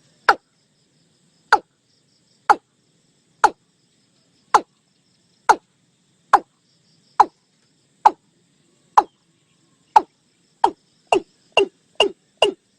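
Watercock calling: a series of short notes, each dropping quickly in pitch. They come about once a second, then speed up to about two a second near the end. Faint insects trill in the background.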